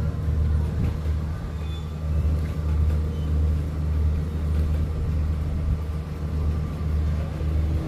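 Steady low rumble of a diesel train's engine as the train pulls out of the station, rising and falling slightly in slow swells.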